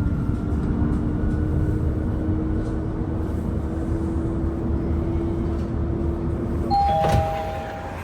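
Steady low rumble and a held hum inside a moving public-transport vehicle, then a two-note electronic chime about seven seconds in.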